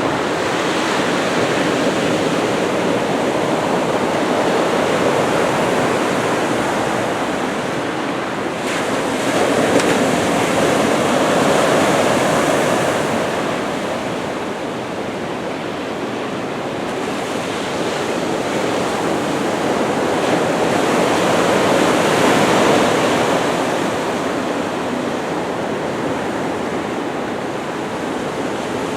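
Ocean surf from a typhoon swell: waves breaking and washing in as a continuous rush that swells and eases, loudest about ten seconds in and again around twenty-two seconds.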